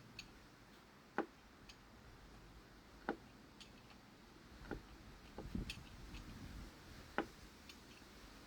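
Faint, scattered sharp clicks and light knocks, about one every second or two, from small hand-tool work on threaded fittings.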